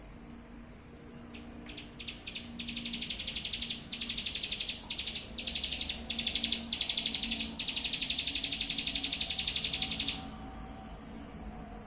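A pet songbird singing a long, rapid trilling song in a string of high, buzzy phrases with short breaks, stopping abruptly near the end.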